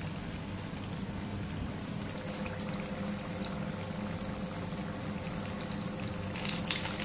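Spring rolls deep-frying in hot oil in a pan: a steady bubbling sizzle. Near the end the sizzle turns louder and more crackly.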